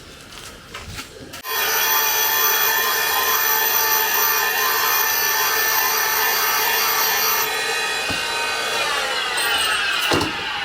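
Valve refacing grinder switched on about a second and a half in, running with a steady whine and grinding rasp as it dresses a valve face, then winding down with falling pitch near the end.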